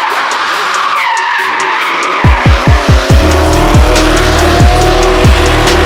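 Drift cars skidding, with squealing tyres and engines. About two seconds in, music with deep bass hits that drop in pitch starts over the top.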